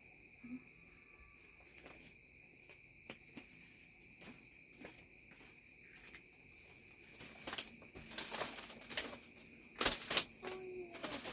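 Steady high insect drone. About halfway through, a run of loud, irregular rustling bursts starts and keeps on.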